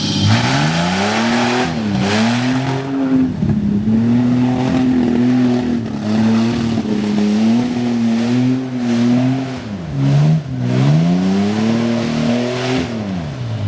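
1984 AMC Eagle wagon's engine revving hard under load in swamp mud: the pitch climbs steeply in the first second or two and is held high, wavering, with brief drops about two seconds in and about ten seconds in, then falls away at the end.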